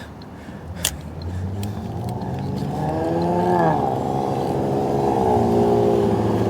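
Car engine accelerating, its pitch climbing and then dropping at a gear change about three and a half seconds in. It then holds a steady note while growing louder toward the end.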